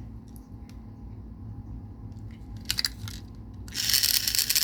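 The small electric motor of a battery-powered toy Percy train engine starts about three-quarters of the way in and runs with a loud, buzzy rattle. A little buzzy, a sign the motor needs some work. Before it starts there are only a few faint clicks.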